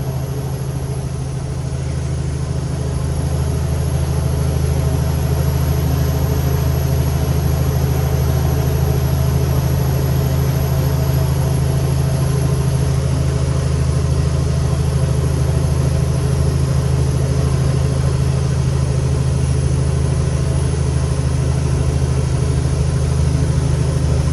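Cummins X15 diesel of a Kenworth T800 truck heard from the cab, running steadily with a low drone and a thin high whine over it, getting a little louder a few seconds in.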